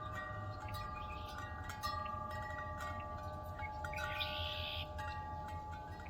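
Wind chimes ringing in a breeze: several tones struck at irregular moments, overlapping and left to ring out.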